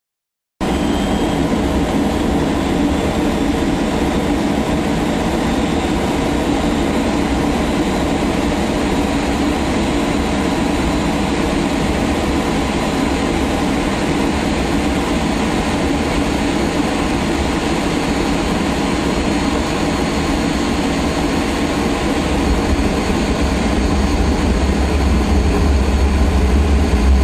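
Boeing 737-300's CFM56-3 turbofan engine starting up: a steady whine over a loud low rumble that starts abruptly and grows louder over the last few seconds. It is the engine's first start after preservation, with leftover preservation oil in the fuel system being burned off.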